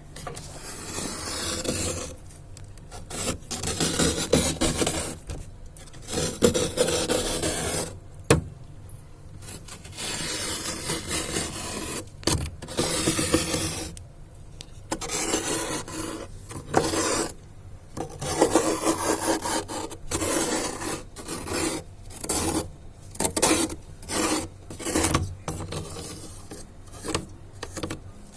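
Ice being scraped in repeated rasping strokes, each lasting about a second or two, with short pauses between them.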